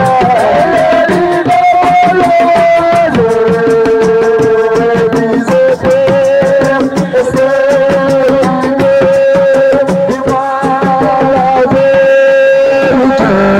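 Live assiko band music: hand drums playing a fast, dense rhythm under a held, wavering melody line.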